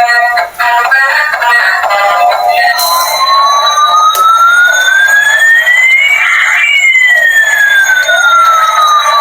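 Electronic toy sound from a small speaker: a short synthesized jingle, then a slow siren-like sweep in which one tone rises while another falls, the two crossing a little past halfway.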